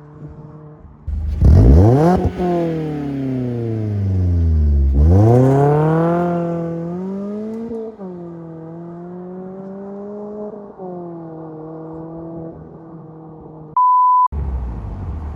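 Mazda MX-5 Miata ND with a Good-Win Racing RoadsterSport Race axle-back muffler driving by: the exhaust note comes up suddenly and falls in pitch as the car passes, then climbs sharply under acceleration, dropping at two upshifts before settling to a steadier drone. Near the end a half-second electronic beep tone cuts in with the car sound muted.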